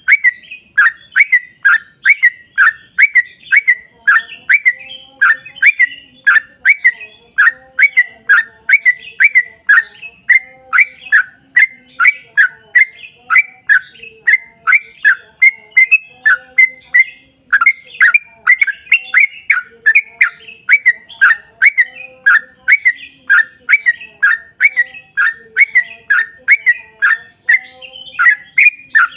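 Yellow-vented bulbul (trucuk) singing a long unbroken run of short, sweeping chirpy notes, about two to three a second.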